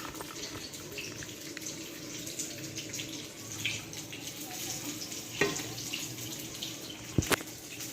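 Serving spoon knocking and scraping against the cooking pan as food is spooned onto a plate, over a steady hiss; two sharp knocks, the louder one near the end.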